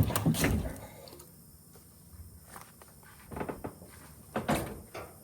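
Knocks and clunks of a scrap clothes dryer's sheet-metal body being handled: a loud bang at the start and another just after, then a few lighter knocks near the end.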